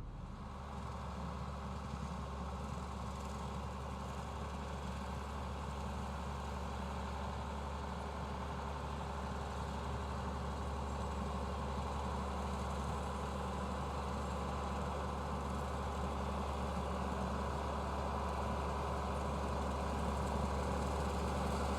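John Deere tractor engine running steadily, heard from inside the cab as an even, low hum.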